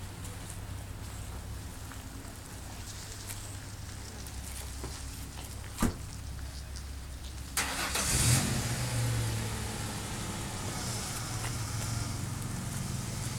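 2003 Chevy S10's 2.2-litre four-cylinder engine being started: a click, then the starter cranks about seven and a half seconds in, the engine catches within a second with a brief rev, and settles into a steady idle.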